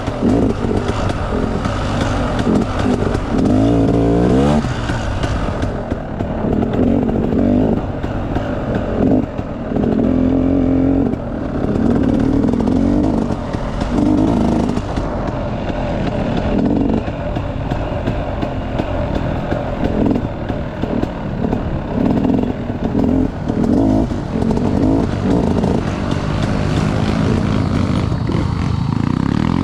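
Enduro dirt bike engine revving up and down with the throttle while riding a trail, rising in pitch several times.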